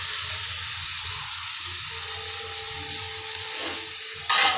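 Chicken and potato pieces sizzling in hot oil and masala in a kadhai as they are tipped in. A sharp metal clank near the end, with a smaller one just before it, of spatula or pan against the kadhai.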